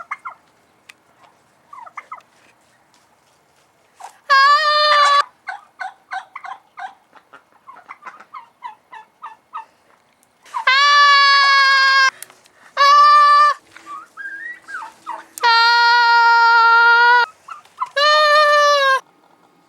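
Poultry calling: runs of quick, short clucking notes broken by five loud, long calls, each held at one steady pitch.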